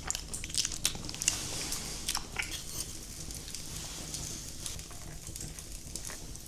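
A person eating close to the microphone: a run of small clicks and crunches, then quieter chewing for the last few seconds.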